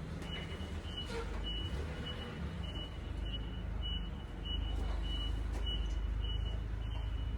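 An electronic backup alarm beeping about twice a second over a steady low engine rumble; the rumble gets louder about halfway through.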